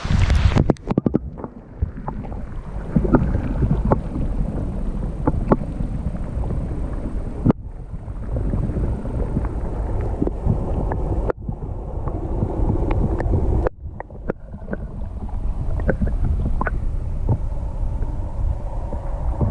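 Wind buffeting the camera microphone in a low, steady rumble, with scattered sharp knocks and clicks. The sound breaks off abruptly three times, at about a third, halfway and two-thirds through.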